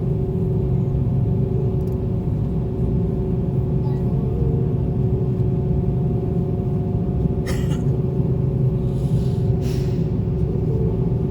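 Airliner cabin noise while the plane waits on the ground before takeoff: the engines at low power make a steady low rumble with a few faint steady hums above it. A short click sounds about seven and a half seconds in.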